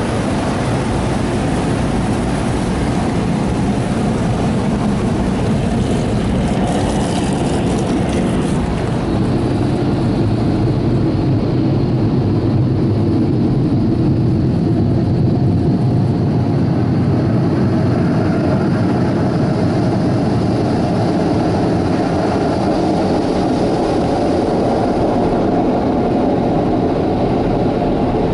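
Car wash air-dryer blowers running loudly and steadily, heard from inside the car: the second drying pass of a PDQ ProTouch Tandem touchless wash.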